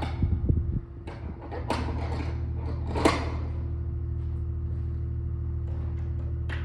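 Skid steer engine running with a steady low drone that dips briefly about a second in, with a few sharp knocks and clanks over it, the loudest about three seconds in.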